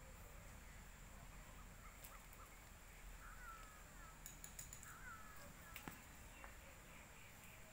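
Near silence with faint outdoor ambience: a few short, faint bird chirps about three seconds in and again about five seconds in, over a thin, steady high tone.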